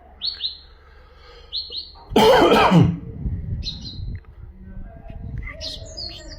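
Birdsong tutor recording of the bird called al-haddad ('the blacksmith') in Arabic, used to teach goldfinches and canaries: short high chirps, mostly in pairs. About two seconds in comes a loud, harsh sound that falls steeply in pitch.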